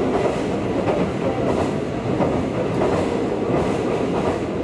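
Tobu Railway electric train running at speed, heard from on board: a steady rumble of wheels on rail with a few faint clicks.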